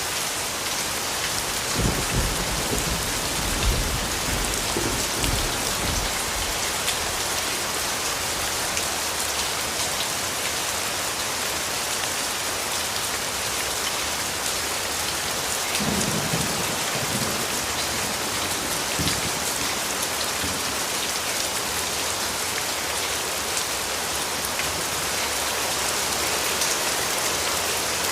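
Steady rain falling, with low rumbles of thunder about two seconds in and again around sixteen seconds.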